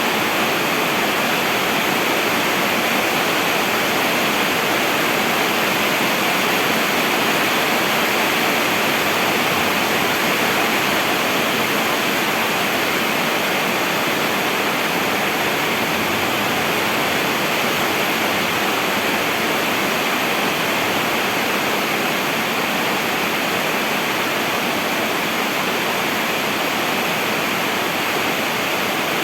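Heavy rain falling steadily, a dense even hiss with no breaks or separate drops standing out.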